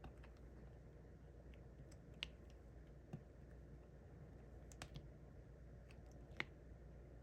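Faint, sparse light clicks and taps of a diamond-painting drill pen picking up resin drills and pressing them onto the adhesive canvas, about five taps at uneven intervals over a low room hum.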